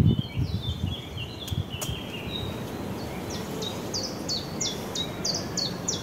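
Songbird singing: a run of stepped chirps, then a quick series of short, high, down-slurred notes about three a second, over a low steady rustle of outdoor background noise.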